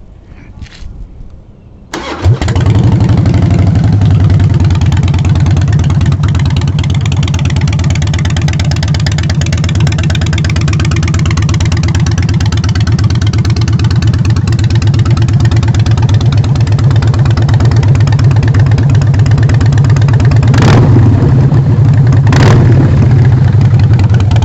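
The Twin Cam 88B V-twin of a 2005 Harley-Davidson Night Train Softail, fitted with Vance & Hines exhaust pipes, cranks and fires about two seconds in, then runs loud and steady at idle. There are two short, sharp sounds near the end.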